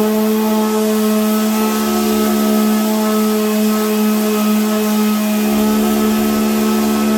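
A power tool's motor running steadily at one constant pitch, a loud, even hum.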